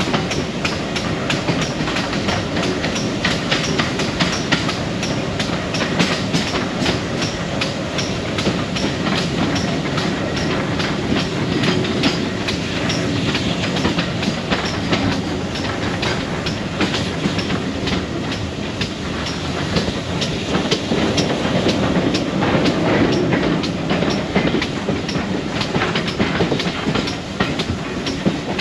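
Passenger carriage of a steam-hauled train running at a steady speed, with a continuous rumble and frequent clickety-clack of the wheels over the rail joints.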